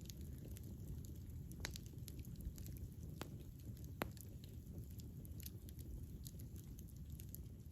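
Wood fire crackling, with scattered sharp pops over a low, steady rumble of burning; the loudest pop comes about four seconds in.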